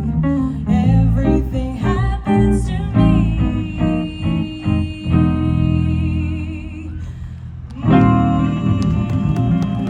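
Jazz trio of double bass, guitar and a woman's voice playing the close of a slow ballad, the singer holding a long wavering note over plucked guitar and bass. About eight seconds in, a final chord sounds and rings on.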